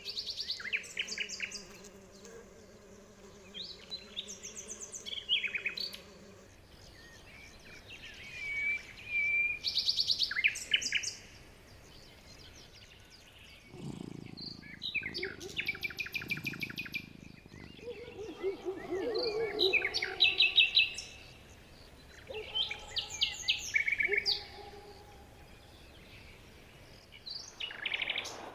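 Small songbirds chirping and singing in a series of separate bursts: quick chirp runs, trills and short whistled phrases, with quieter gaps between them.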